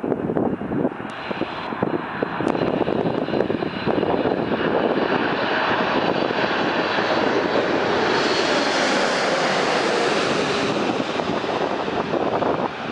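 Jet engine noise from a Boeing 747-8 Intercontinental's four GEnx turbofans as the airliner comes in to land. The sound is loud and steady and swells with a high whine about eight seconds in as the aircraft passes closest, then eases off.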